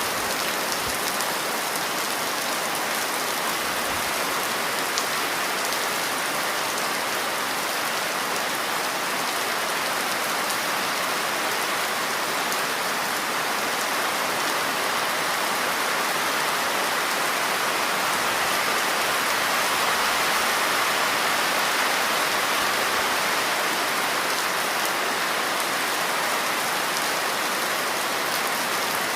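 Steady rain falling on a surface, a constant even hiss of many drops.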